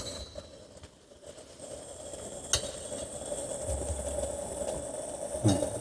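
Moritz espresso machine starting up after its knob is turned: a steady hum with a hiss above it, a click a little later and another near the end. The machine is running with no water in its tank, which the owner takes as the reason it does not make the sound he expects.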